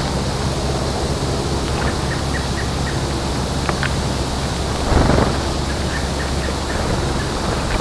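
Small wild birds giving short, high chirps over a steady outdoor background rush with a low hum, with a brief louder rush of noise about five seconds in.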